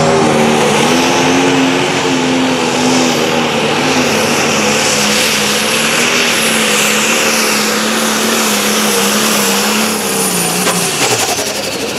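Pulling tractor or truck engine run at high, steady revs under load on the track. About ten and a half seconds in the revs drop, and a high whine glides down with them.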